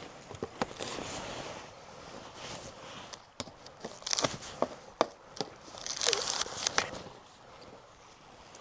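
Irregular clicks, knocks and rustling scrapes of a person moving about and handling things, with louder bursts about four and six seconds in.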